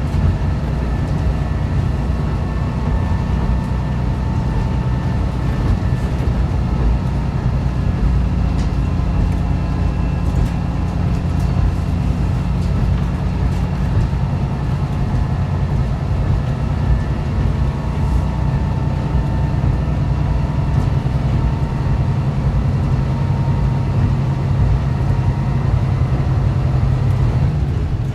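Running sound inside a diesel railcar under way: the diesel engine's steady drone under wheel and rail noise. Near the end the engine note drops away, as when the driver eases off the power.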